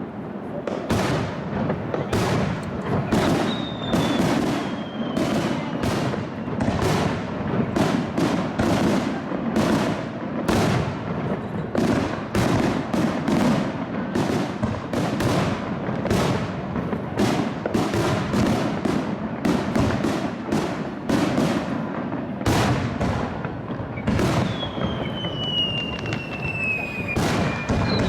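Fireworks going off in a dense, continuous barrage of sharp bangs and cracks, several a second. Falling whistles cut through about three seconds in and again near the end.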